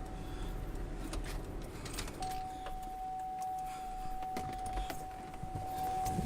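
A steady high single tone, like a warning beep, sounds faintly at first and then strongly from about two seconds in, over a low rumble with scattered clicks and knocks.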